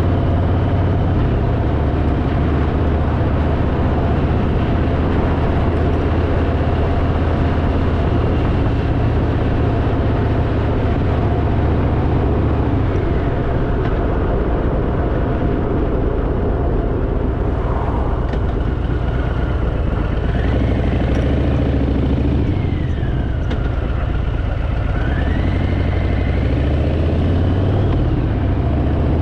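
Harley-Davidson motorcycle's V-twin engine running under way, with a steady rush of wind and road noise over it; the engine note shifts a few times as the speed changes.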